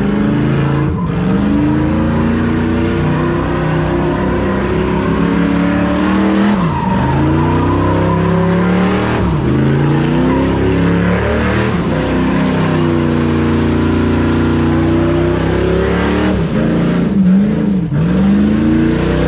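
Truck engine revving hard at high rpm. The revs dip briefly and climb again several times.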